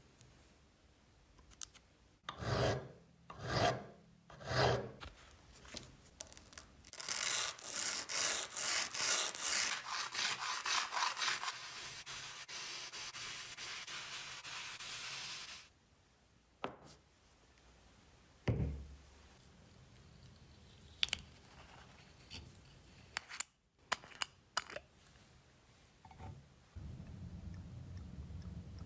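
Rubbing on a workpiece: three separate strokes, then a long run of rapid back-and-forth strokes lasting about eight seconds, followed by scattered clicks and a knock.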